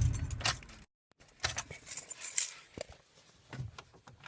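The Ford F-150's supercharged 5.4-litre V8 idles and cuts off abruptly about a second in. Then come light jingles and clinks of keys, loudest a little past halfway.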